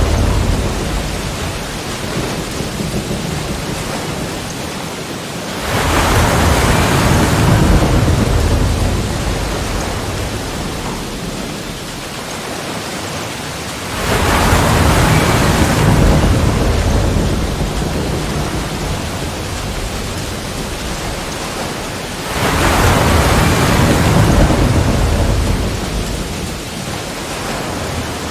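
Sea waves crashing against rocks. Three waves break about eight seconds apart; each comes in with a sudden rush and then slowly washes away.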